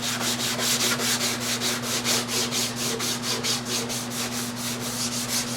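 Abrasive scrubber pad rubbed back and forth by hand over a plastic motocross gas tank, scuffing off the faded surface in quick, even strokes, about five a second. A steady low hum runs underneath.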